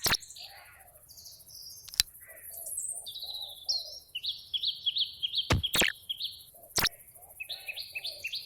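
Bird chirping in quick runs of repeated high chirps, broken by a few sharp clicks.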